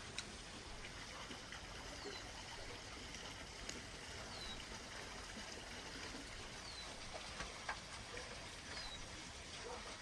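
Faint outdoor ambience: a steady rush of running water, with a bird repeating a short falling chirp about every two seconds. A few light clicks are scattered through it.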